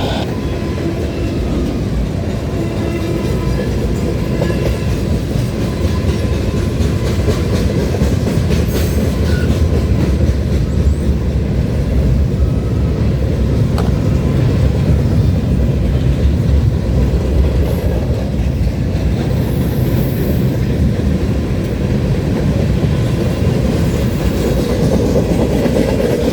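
Freight train cars rolling past on the rails: a steady low rumble that grows a little louder about six seconds in.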